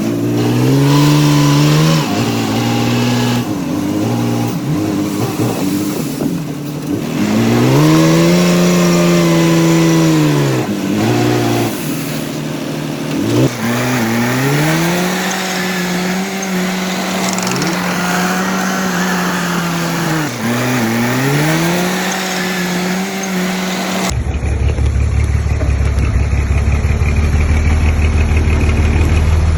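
Diesel engine of heavy earthmoving machinery revving up and down, its pitch rising and falling several times. Near the end the sound changes abruptly to a lower, steadier pulsing rumble.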